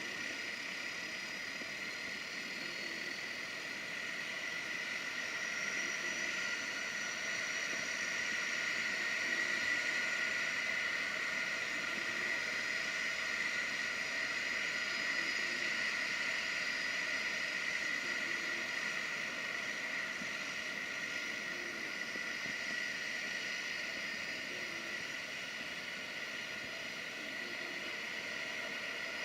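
Seaplane's turboprop engines running with a steady high whine over a rushing hiss, swelling to its loudest about ten seconds in and then easing slightly.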